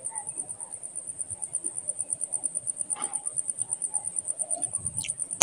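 A cricket chirping steadily, a fast, even train of high chirps at about eight a second.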